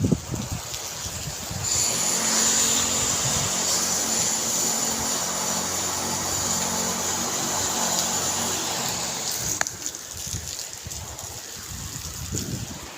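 A motor vehicle's engine running steadily for several seconds, then dropping away, with one sharp click just before it fades.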